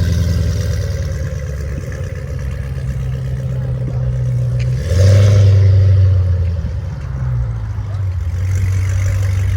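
Car engine running at a steady idle, revved up briefly about five seconds in and then settling back.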